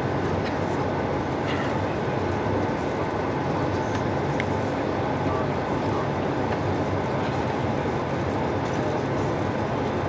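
Steady cabin noise inside an Airbus A220-300 airliner: an even rush with a low hum underneath and a few faint clicks.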